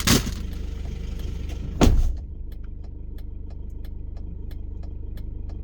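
Inside a running car: a steady low engine and road rumble, two sharp thumps in the first two seconds, then an even clicking about three times a second, typical of a turn-signal indicator.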